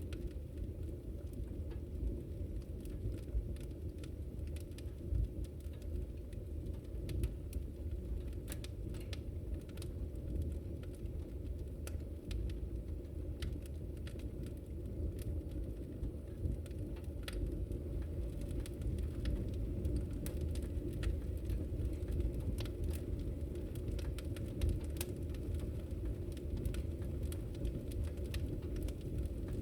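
Wood fire crackling in a fireplace: many scattered sharp pops and snaps over a steady low rumble of the flames.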